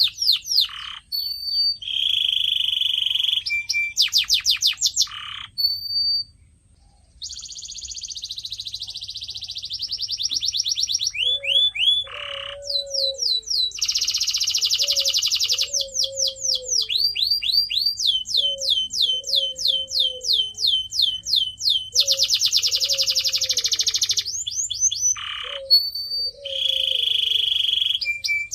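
Domestic canary singing a long song of tours: fast trills of repeated down-sweeping notes, buzzy rattling rolls and short steady whistles, one after another with brief breaks. From about the middle on, a lower repeated gliding note sounds beneath the trills.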